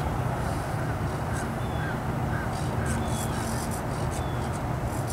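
A bird calling in a run of short chirps, about two a second, over a steady low rumble.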